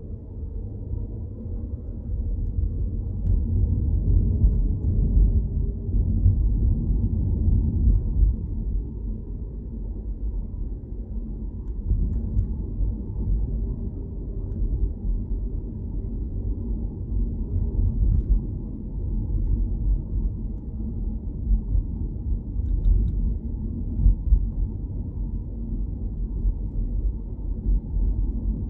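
Low, steady rumble of a car driving: tyre and engine noise, growing louder about a second in.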